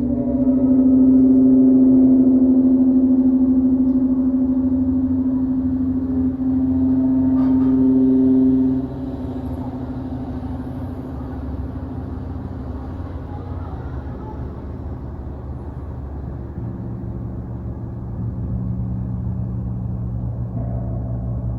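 Sound-bath instruments ringing in long, overlapping drones with overtones that swell about a second in. The main tone falls away about nine seconds in, leaving lower steady hums.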